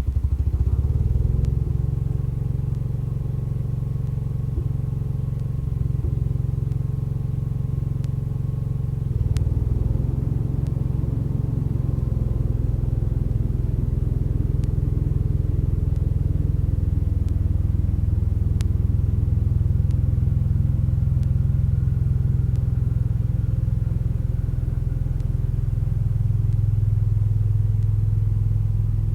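1975 Case 224 garden tractor's engine running steadily while driving its snow thrower. It is a continuous low engine note whose pitch shifts slightly a few times.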